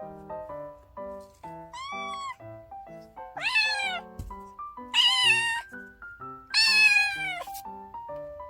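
Kinkalow kitten meowing four times, high-pitched calls that arch and fall in pitch: a faint first one about two seconds in, then three louder ones spaced about a second and a half apart. Background music with light plucked notes plays underneath throughout.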